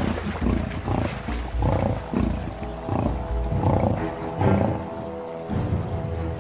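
Lions growling and snarling over a buffalo kill in short, rough, repeated growls, with background music underneath.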